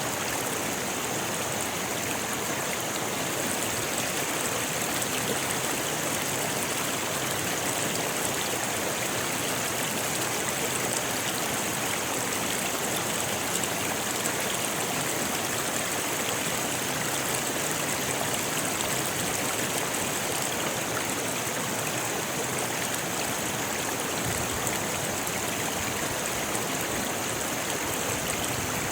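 Rocky river flowing over stones: a steady, even rush of water with a bright hiss.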